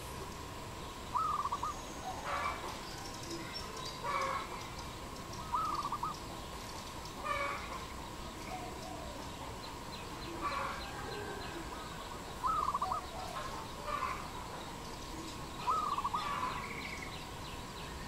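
Birds calling at intervals of a second or two: a short, rapidly pulsed call repeats four times, alternating with rougher calls, over a faint steady tone.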